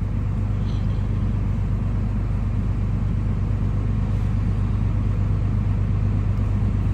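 An engine idling: a steady low rumble.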